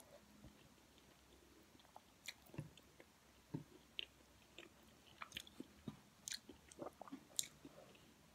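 Faint chewing of rice and kare-kare stew eaten by hand, with small wet mouth clicks scattered through, starting about two seconds in and coming more often toward the end.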